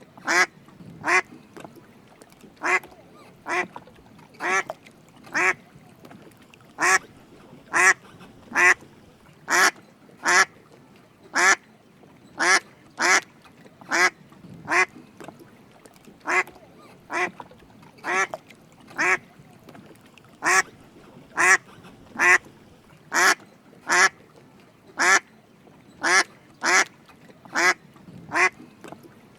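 Drake mallard calling: short quacks repeated about once a second, often two in quick succession.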